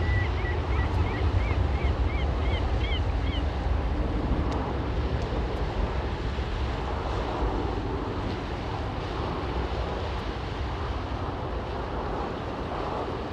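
Wind buffeting the microphone as a steady low rumble, with a row of short high chirps in the first three seconds or so.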